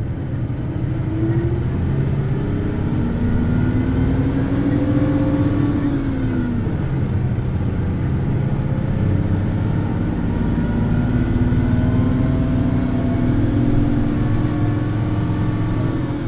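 Hino Blue Ribbon City Hybrid bus's diesel engine pulling away at high revs, climbing in pitch, dropping about six seconds in, then climbing again and easing off near the end. A faint high whine rises and falls along with it.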